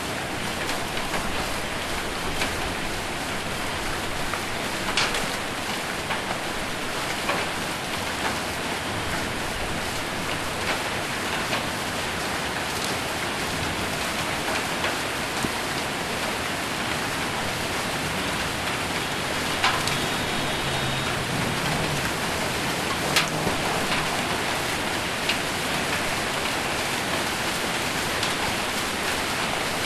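Heavy rain with hail on a metal roof: a steady hiss of rain with scattered sharp knocks from single hailstones striking the metal every second or two.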